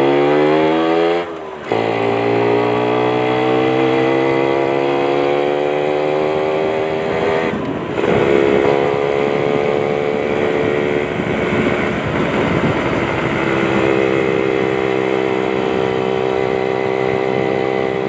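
Two-stroke Yamaha Champ motorcycle with a racing exhaust, its engine note rising gradually under acceleration. The note is broken by a brief drop about a second in and a short gap near eight seconds before it climbs again.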